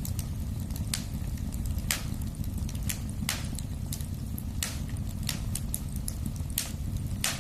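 Wood fire crackling in a fireplace: scattered sharp pops and snaps, roughly one or two a second, over a steady low rumble of the flames.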